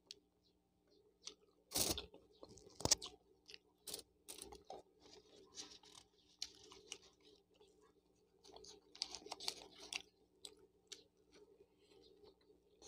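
Close-up eating sounds of a person chewing a shawarma wrap: soft wet smacks and small clicks, with two sharper clicks about two and three seconds in.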